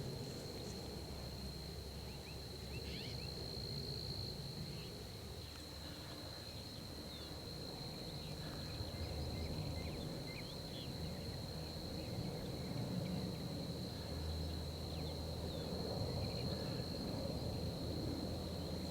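Insects droning steadily at one high pitch over a low outdoor rumble, with scattered faint short chirps.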